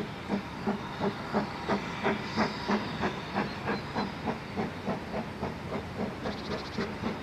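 Narrow-gauge steam locomotive working, its exhaust beats coming steadily at about three a second.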